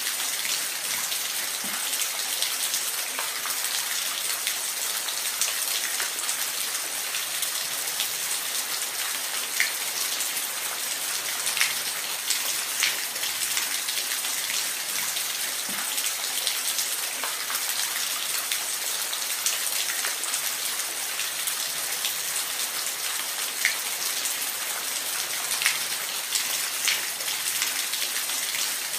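Steady rain falling, an even hiss with many scattered individual drops ticking close by on a surface.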